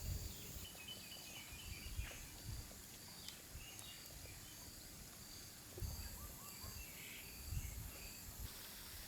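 Faint outdoor ambience: an insect chirping in an even rhythm, about three chirps every two seconds, with a few faint bird calls and low rumbles.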